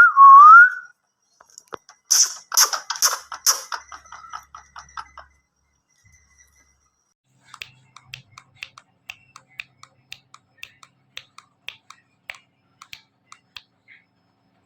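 Ringneck parrot giving a loud rising whistle, then a burst of harsh, rapid chattering calls about two seconds in. From the middle on there is a long run of faint, sharp clicks.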